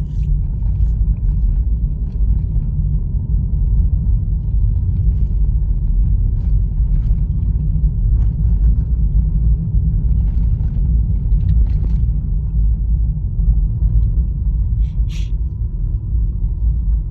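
Steady low rumble of road and engine noise inside a Honda Fit's cabin as it drives, with faint scattered ticks and one brief sharp sound about fifteen seconds in.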